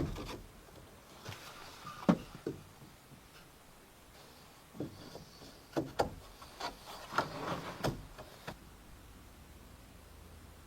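Irregular knocks and scrapes of wood on wood, as timber is handled in building work: about ten sharp knocks, the loudest about two seconds in, most of the rest bunched in the second half.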